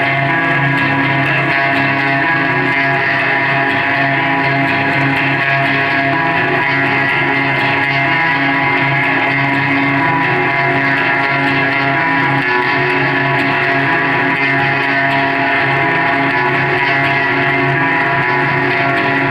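A live rock band plays loud, with electric guitar holding sustained chords that ring on steadily.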